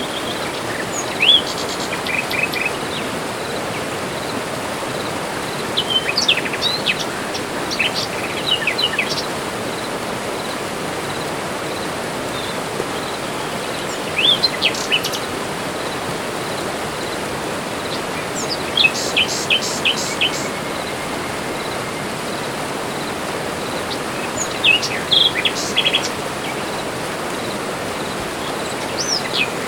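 Tropical forest birds calling in short bouts of quick chirps and whistles every few seconds, over a steady, even rushing background noise.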